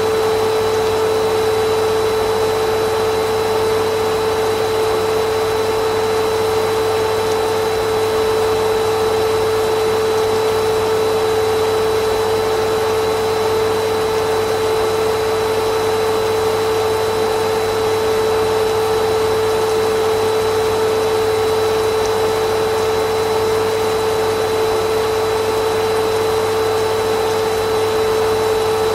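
Vacuum cleaner running steadily: a constant rush of air with an even motor hum that holds one pitch throughout, without any change in speed or loudness.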